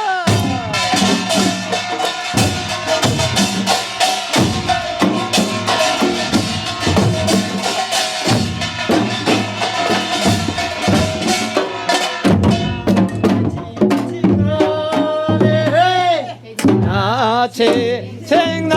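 A Korean pungmul percussion group plays fast and dense on janggu hourglass drums and kkwaenggwari small gongs. About twelve seconds in the beating thins out and voices start singing over the drums.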